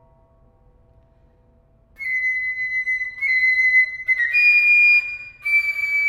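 Concert flute playing long, high held notes, coming in about two seconds in over a fading piano chord. The pitch steps up once near the middle, and there is a short break before the last held note.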